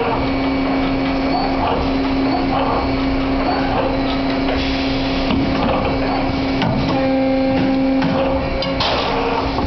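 CNC wire bending machine running: a steady motor hum with clicks and knocks from its forming mechanism, and two short hissing bursts, about halfway through and near the end.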